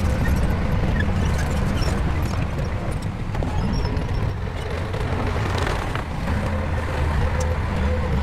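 Shantui bulldozer's diesel engine running under load, a steady low rumble that eases about halfway through and builds again near the end.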